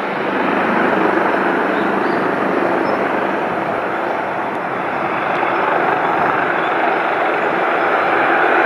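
Aircraft engine noise at an airport, a loud steady rush that swells slightly near the end.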